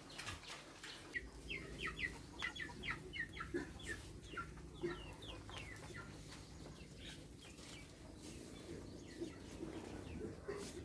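Chickens calling: a rapid run of short, high, falling calls in the first half, thinning to a few scattered calls later.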